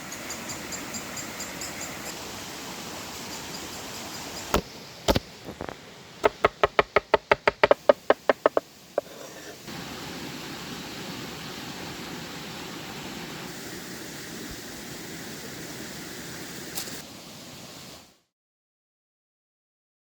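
Steady outdoor background hiss with faint high chirps at first, then two sharp knocks and a fast run of about fifteen knocks, roughly six a second. The sound cuts off into silence near the end.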